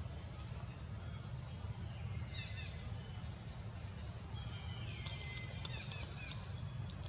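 Newborn pigtail macaque giving short, high-pitched whimpering squeals, then one longer cry about five seconds in that falls in pitch and holds; these are hunger cries for milk. A quick run of sharp ticks follows near the end, over a steady low rumble.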